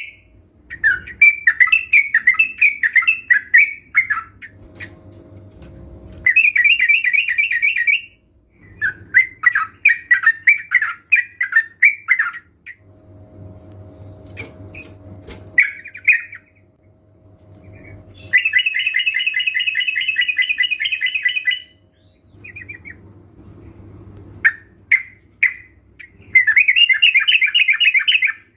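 Several yellow-vented bulbuls singing in loud bouts of rapid, bubbly chattering phrases, each a second to a few seconds long with short pauses between.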